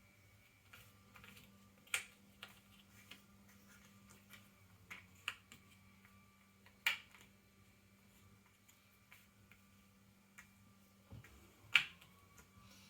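Cardboard jigsaw puzzle pieces clicking and tapping on a table as a 300-piece Ravensburger puzzle is put together: scattered light clicks, with three sharper snaps about two, seven and twelve seconds in.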